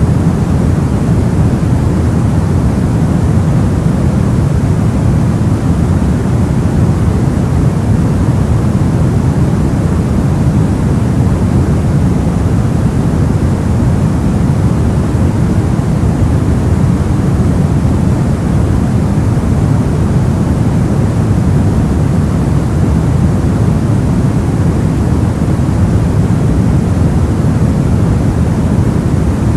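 Steady soft noise made for sleep: an even, unchanging hiss with most of its weight in the deep end, like a low rumbling rush.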